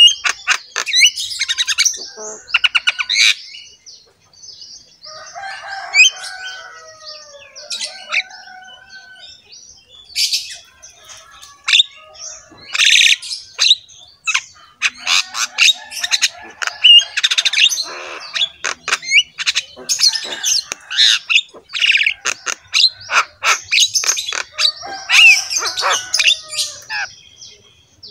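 Birds chirping and squawking in quick, overlapping calls, many short sharp notes with fast pitch glides.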